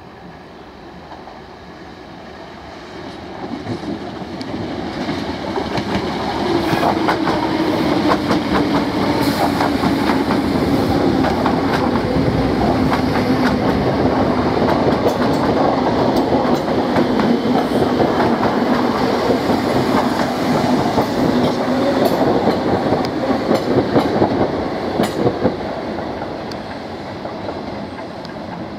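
Electric multiple-unit passenger train passing at speed, its wheels clattering over the rail joints, with a low motor hum that sinks slightly in pitch. The sound builds over the first few seconds, holds loud, then eases off near the end.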